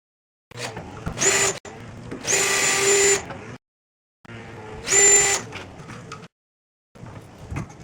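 Power drill running in three short bursts, each with a steady high-pitched whine.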